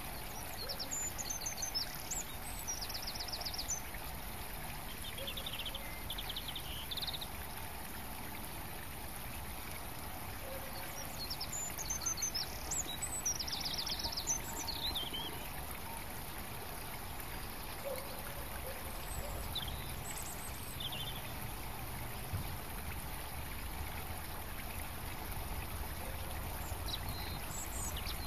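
Small birds chirping and trilling in several short, high-pitched bouts over a steady outdoor hiss and low rumble.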